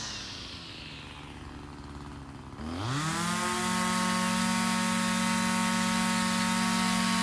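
Small two-stroke engine idling, then about two and a half seconds in revved quickly up to high speed and held there steadily.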